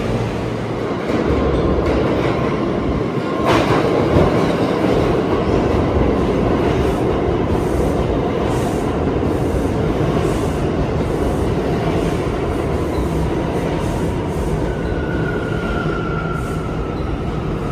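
New York City subway train running through the station with steady wheel-on-rail clatter, a sharp squeal about three and a half seconds in, and a whine that slowly falls in pitch near the end.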